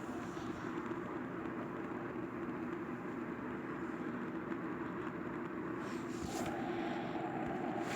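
Steady drone of an airliner's cabin and engine noise at cruise, with a low hum running through it; it grows slightly louder about six seconds in.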